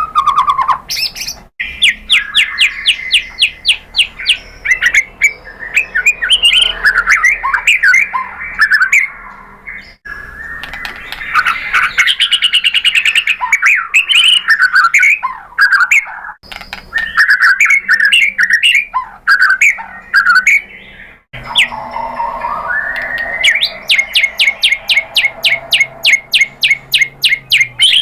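White-rumped shama singing a long, loud, varied song of whistled phrases. Fast runs of evenly repeated notes, about seven a second, come near the start and again over the last few seconds.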